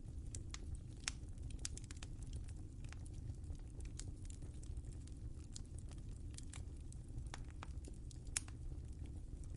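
Wood fire crackling in a fireplace: irregular sharp pops and snaps over a steady low rumble of the burning fire, with one louder pop about a second in and another near the end.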